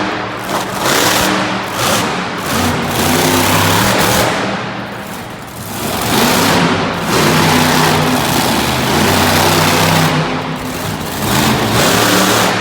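Monster truck engine revving hard and easing off in waves several times, with the level dipping when it lets off.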